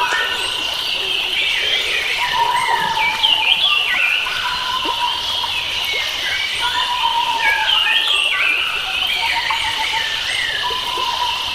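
Forest birds singing in a dense chorus: many short chirping and warbling phrases overlap. A steady high insect-like drone and a repeated lower whistled note sit beneath them.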